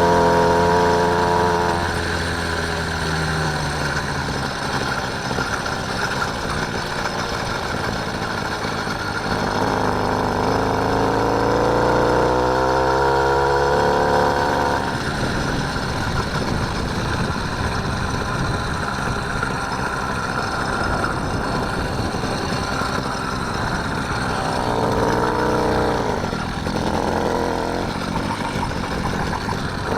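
Small engine of a motorised bike running while riding, its pitch rising and falling as the throttle opens and eases off, most clearly near the start, through the middle and again near the end, over a steady rushing noise.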